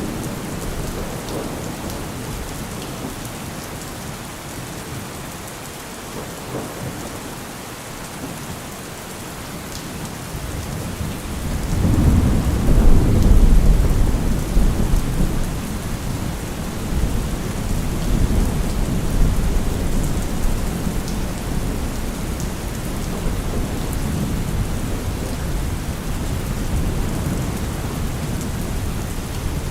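Steady rain falling, with a long roll of thunder that swells up about twelve seconds in and rumbles on in waves, slowly fading.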